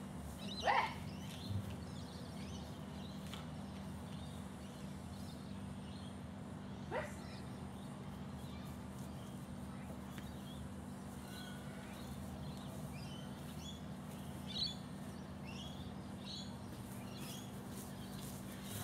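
Small birds chirping over a steady low hum, the chirps coming thickly in the second half. A brief sharp sound about a second in and another about seven seconds in stand out above the hum.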